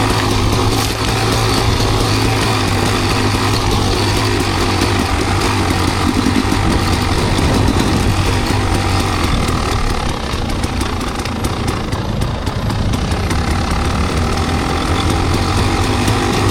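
Enduro dirt bike engine running steadily at an even, low speed.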